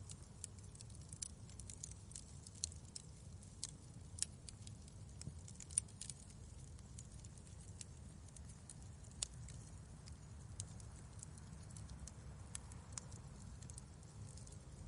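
Wood fire crackling in a fireplace: irregular sharp pops and snaps over a faint, steady low rumble.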